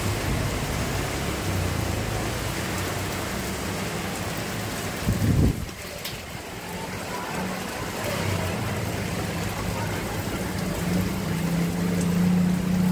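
Steady rain falling, an even hiss throughout, under a low wavering hum that grows stronger near the end. A brief loud low thump about five seconds in.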